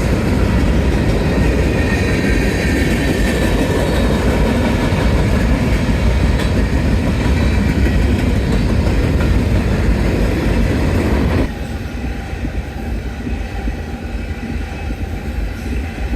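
Norfolk Southern freight train's cars rolling past, a steady rumble of steel wheels on rail with some clickety-clack. About eleven seconds in the sound drops suddenly to a quieter rumble.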